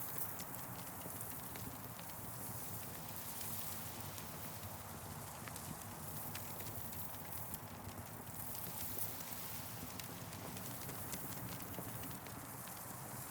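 Wood fire crackling: frequent short pops and ticks scattered over a steady, low, hissing bed of sound.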